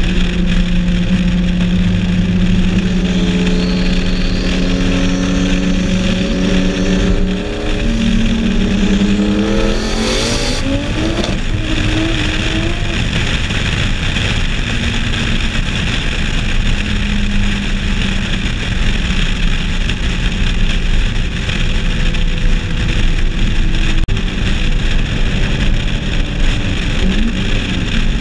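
Turbocharged race cars, a turbo Supra and a turbo LSX V8-swapped RX-7, cruising side by side with a steady engine drone, then revving up together in a fast rising pitch about eight seconds in as they accelerate hard. After that comes a loud, even rush of wind and road noise at speed, with the engines fainter beneath it.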